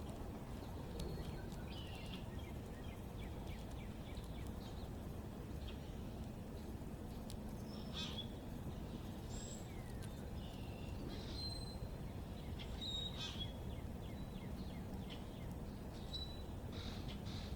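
Backyard songbirds chirping and calling on and off: short high chirps and a few brief whistled notes, some in quick runs. Under them runs a steady low outdoor rumble.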